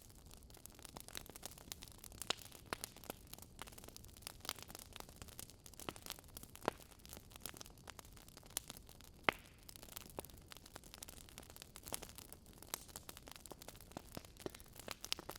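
Wood fire crackling: irregular sharp pops and snaps of burning logs over a soft hiss, with a few louder pops standing out.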